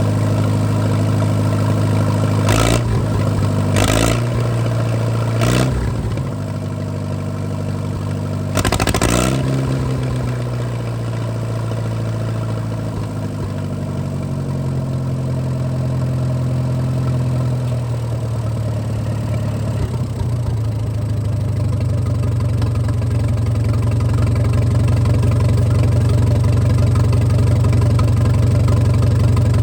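Allis-Chalmers WD pulling tractor's four-cylinder engine idling, blipped up briefly four times in the first ten seconds and dropping back to a steady idle each time, running a little louder near the end.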